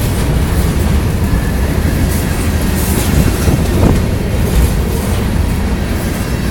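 Freight train rolling past: a steady, loud rumble of rail cars with the wheels clacking over rail joints.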